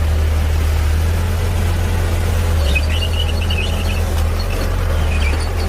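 Heavy diesel engine of earthmoving equipment running steadily with a deep low rumble, with faint short high squeaks from about halfway through.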